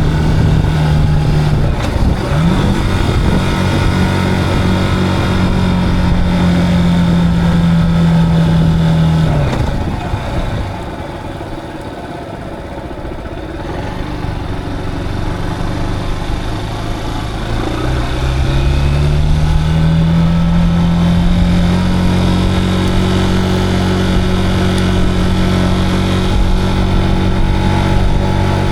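Zontes cruiser motorcycle engine running at steady speed, then easing off about a third of the way in and going quieter for several seconds as the bike slows. It then picks up again with a rising note and settles back into a steady cruise.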